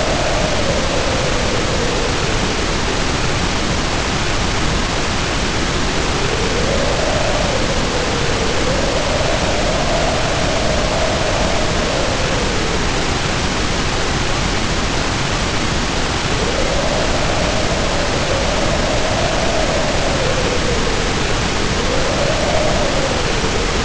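Heavy rain pouring in a steady hiss under howling wind, whose pitch rises and falls in slow swells every few seconds.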